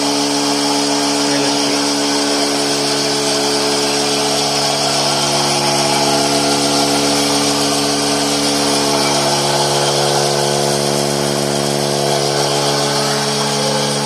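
A milking machine's 7 HP petrol engine running steadily at a constant speed, driving the vacuum pump, with an even, unwavering hum.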